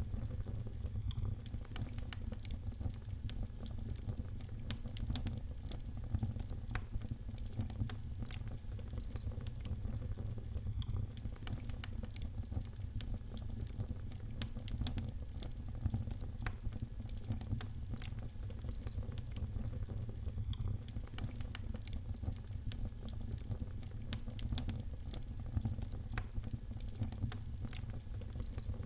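Wood fire crackling: many small, irregular pops and snaps over a steady low rumble.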